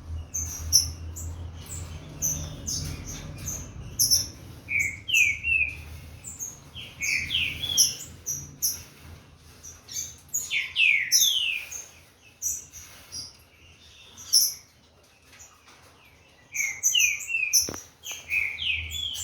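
Captive green-winged saltator (trinca-ferro) warming up, singing bursts of short, quick sweeping whistled notes. The song goes mostly quiet about two-thirds of the way through, then picks up again near the end.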